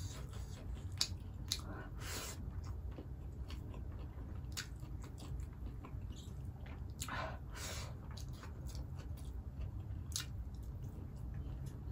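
Close-miked chewing and wet mouth sounds of a person eating a meal by hand, with scattered smacks and clicks and a few longer squishy smears.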